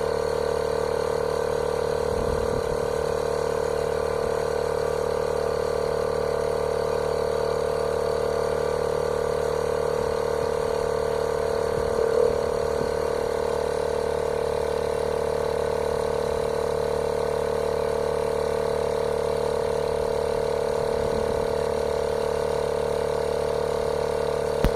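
Cordless portable air compressor running steadily while pumping air into a car tyre, a constant motor-and-pump hum with a strong steady tone.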